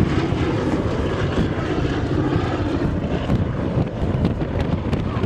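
Fixed-wing aircraft flying in display, its engine noise steady throughout.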